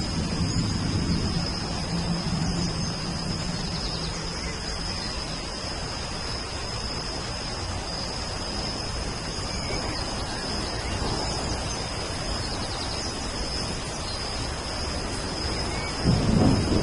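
Steady rain with thunder rumbling: a low roll in the first couple of seconds and a louder one breaking in near the end. A thin steady high tone runs over the rain.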